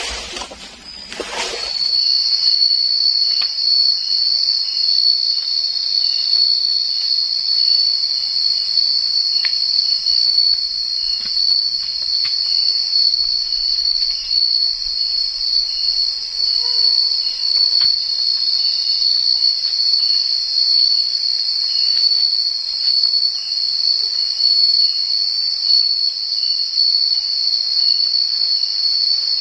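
An insect, of the cricket kind, trilling continuously with a steady, high-pitched buzz. A short burst of rustling noise comes just before it in the first two seconds.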